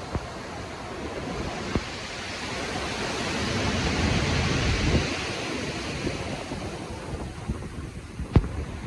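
Storm-driven ocean waves surging, with wind: the surf swells to a peak about halfway through, then eases back. A few brief sharp knocks cut through, the loudest near the end.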